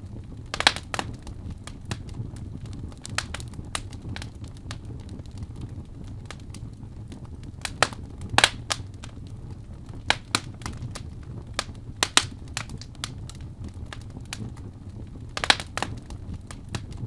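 Fire crackling in a fireplace: scattered sharp pops and snaps over a steady low rumble, the loudest pops about a second in, around the middle and a little before the end.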